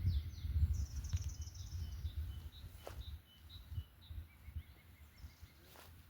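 Forest songbirds calling: a high buzzy trill about a second in, then a run of short, evenly spaced notes, and a lower series of notes later on. Beneath them is a low rumble that fades after the first half.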